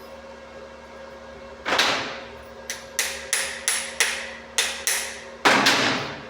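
Hammer striking metal about nine times at an uneven pace, each blow ringing briefly. The first and last blows are the loudest.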